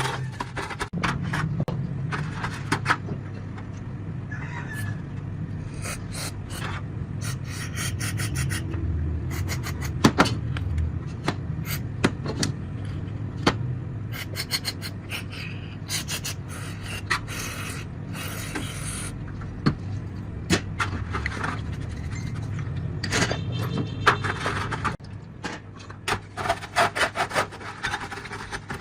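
Repeated scraping and rubbing strokes with scattered clicks and knocks, over a steady low hum that drops away about 25 seconds in.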